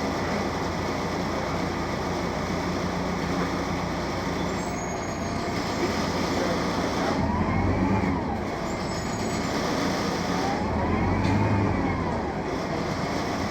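BredaMenariniBus M240 LU city bus running, its Mercedes-Benz OM 906 LA six-cylinder turbodiesel and Voith automatic gearbox giving a steady drone. Twice, in the middle and near the end, a whine rises and falls in pitch as the engine note swells, with faint high squeaks in between.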